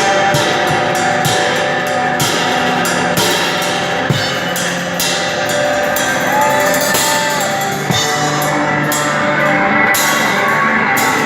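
Instrumental rock played on electric guitar and drum kit, with frequent cymbal hits; the guitar holds one long note a little past the middle.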